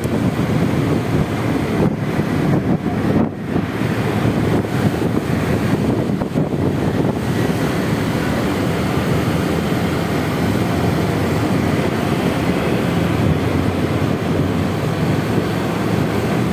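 Steady rush of wind buffeting the microphone on a moving Honda Vario 125 scooter, mixed with its running noise in city traffic, with a brief lull about three seconds in.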